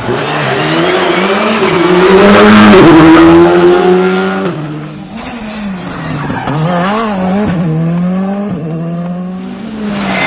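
Rally car engine revving hard, its pitch climbing and dropping again and again through the gear changes, loudest as the car passes close about two to three seconds in.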